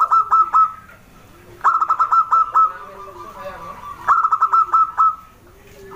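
Zebra dove (perkutut) singing its song three times, each a quick run of five to seven clipped cooing notes.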